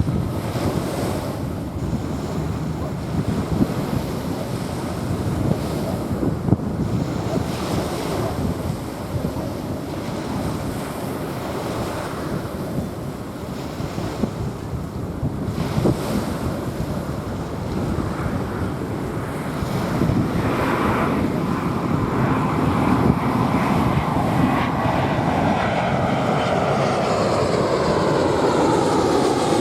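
Waves washing onto a sandy beach, with wind on the microphone. In the last few seconds a jet airliner's rushing sound grows louder, sweeping in pitch as it approaches.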